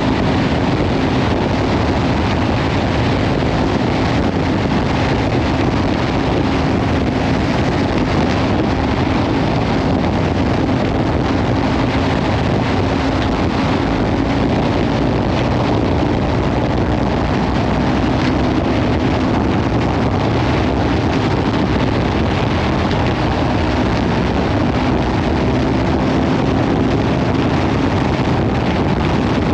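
Kawasaki Ninja 500 parallel-twin engine with a Leovince slip-on exhaust, running at a steady cruise, its pitch edging up slightly near the end. Heavy wind noise on the microphone covers much of it.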